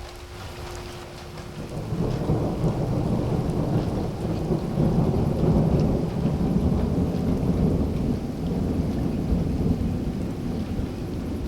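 Rain falling, then about two seconds in a long rumble of thunder builds and rolls on, loud and low, over the rain.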